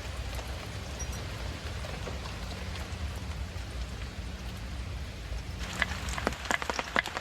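Steady rain falling. About six seconds in, a quick irregular run of sharp knocks begins: a knife cutting food.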